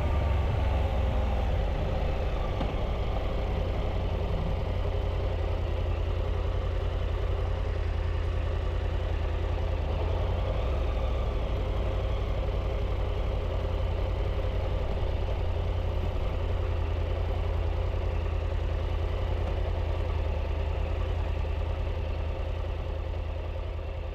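Triumph Tiger 800's three-cylinder engine running steadily at a low, even pitch, fading out near the end.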